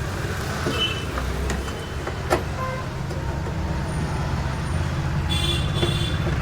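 Steady low rumble of motor vehicle engines, with a single sharp knock a little over two seconds in and a brief tone near the end.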